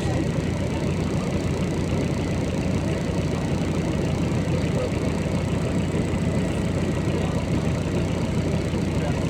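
Diesel engine of a MAZ-203 city bus running steadily, heard from inside the passenger cabin.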